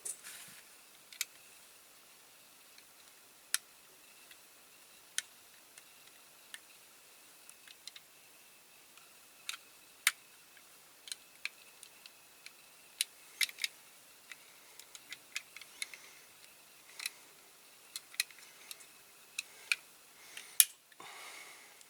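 Irregular small clicks and taps of a diecast toy car's small metal and plastic parts being handled and fitted. There is a louder click and a brief rustle near the end.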